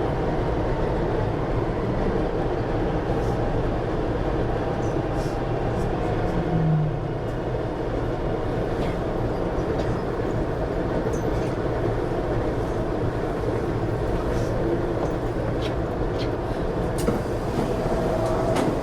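MTR Tuen Ma line train running between stations: a steady low rumble with scattered faint clicks.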